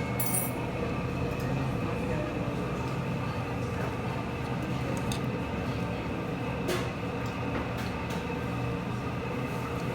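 Steady background din of a hibachi restaurant dining room: a constant rumble with a few faint clicks.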